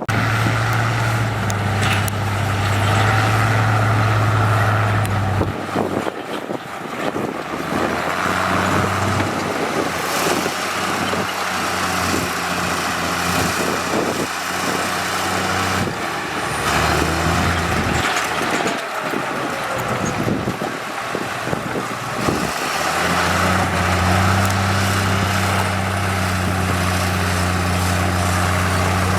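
Diesel engines of heavy road-building machinery running. There is a steady low drone that eases off in the middle, swells briefly, and comes back strongly near the end, over a constant mechanical clatter.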